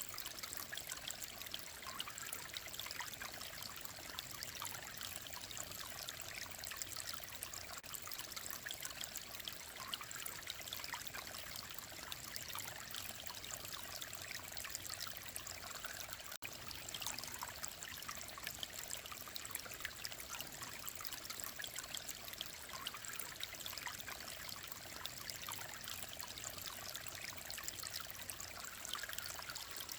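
Shallow mountain stream babbling and trickling over rocks, a steady splashing rush of water.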